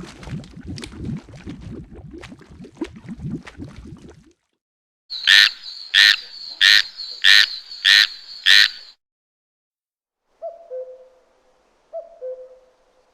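A run of different animal calls. First a dense low rasping, croak-like chorus for about four seconds, then six loud high calls evenly spaced a little over half a second apart, then soft two-note hoots that step down in pitch, heard twice near the end.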